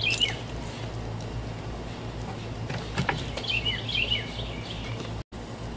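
Small birds chirping, a few quick calls near the start and again about four seconds in, over a steady low hum. A single sharp click comes about three seconds in, and the sound drops out for a moment near the end.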